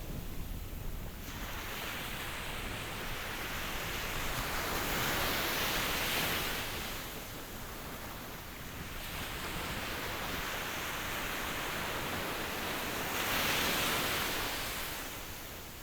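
Ocean surf: waves washing in as a rushing hiss that swells and fades, loudest about five seconds in and again near the end.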